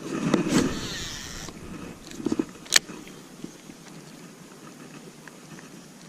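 A fishing cast: a sharp click, then line whirring off the reel for about a second and a half, fading, and another sharp click a little before three seconds in.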